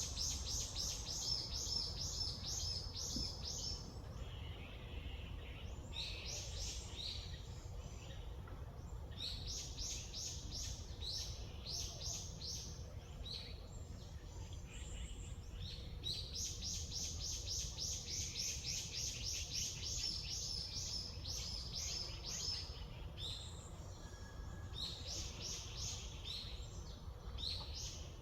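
Songbirds singing: repeated fast runs of short, high chirps and trills, broken by brief pauses, over a steady low background rumble.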